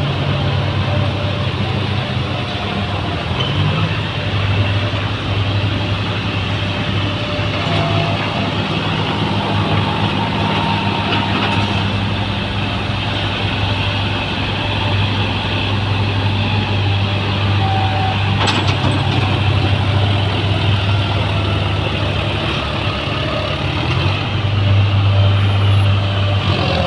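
Diesel tractor engine running steadily, with a slight rise in level near the end.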